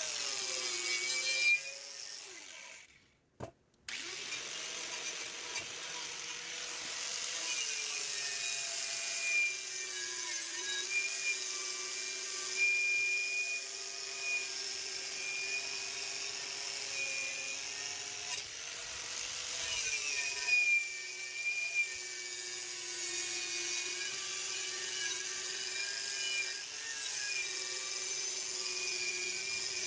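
Powermatic 65 table saw running and cutting wood, its steady motor-and-blade tone dipping in pitch now and then under load. The sound drops out briefly about three seconds in.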